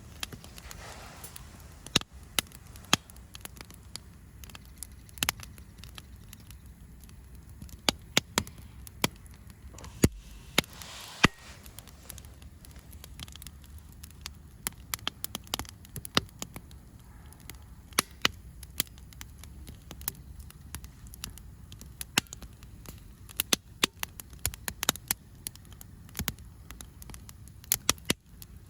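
Wood campfire crackling, with irregular sharp pops scattered throughout over a low steady rumble.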